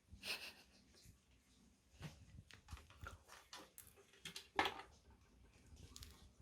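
A cat pawing and nosing at a food puzzle for freeze-dried treats: irregular small taps, clicks and rustles, with the loudest knock about four and a half seconds in.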